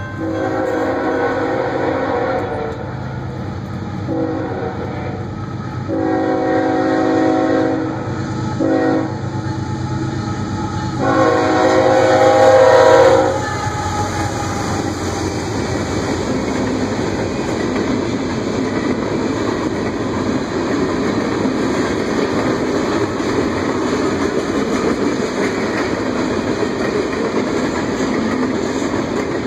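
Norfolk Southern freight locomotive's air horn sounding a sequence of long and short blasts for a grade crossing, the loudest and last long blast cutting off about 13 seconds in as the locomotives pass. After that, the steady rumble and clickety-clack of freight cars rolling by.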